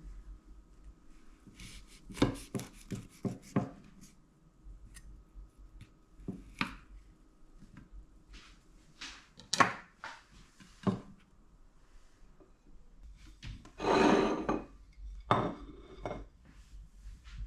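Kitchen handling sounds: dishes and utensils clinking and knocking in a small room, a quick run of clinks about two seconds in, a few single knocks after, and a longer noise lasting under a second near the end.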